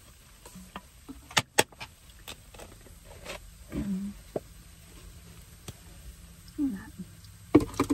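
Close-miked eating sounds: several sharp crunches or clicks, two loud ones about one and a half seconds in and more near the end, with short low murmurs in between.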